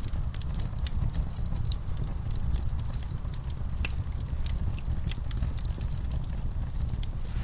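Wood fire in a fireplace crackling, with irregular sharp pops and snaps, several a second, over a low steady rumble of the flames.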